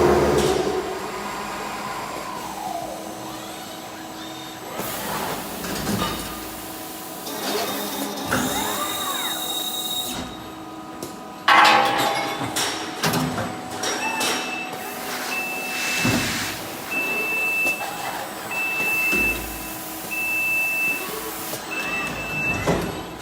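Automated robotic drilling and pressing cell at work: the robot arm's servo motors whine up and down in pitch as it moves, among clicks and knocks. A sudden loud hiss comes about halfway through, and a short, high warning beep starts repeating about every second and a bit a little after that.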